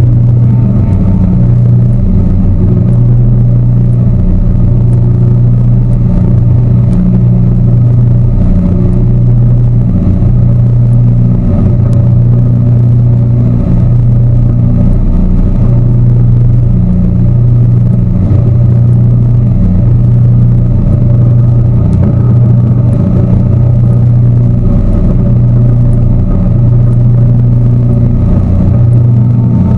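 Tour boat's motor running steadily and loud, a low hum that swells and fades in a slow, even beat about every second and a half.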